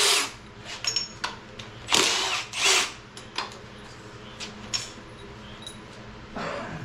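Power drill or driver spinning fasteners off the top end of a Chevy 350 small-block during teardown, in four short bursts of about half a second each. Light metallic clicks and clinks fall between the bursts.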